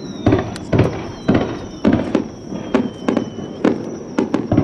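Fireworks display: aerial shells bursting in quick succession, about two booms a second, with a faint high whistle gliding slightly downward behind them.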